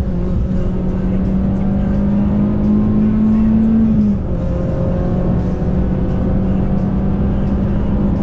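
Citroën C2 VTS's four-cylinder petrol engine running under load on the move, its note climbing slowly, then falling with a dip in loudness about four seconds in before holding steady.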